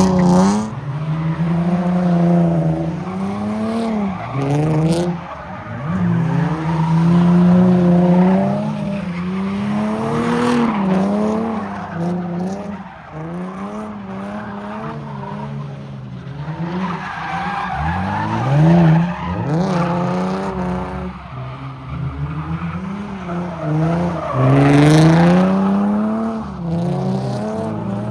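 A car spinning donuts in a car pit: its engine is held at high revs, rising and falling over and over, while the tires skid and squeal, with louder surges now and then.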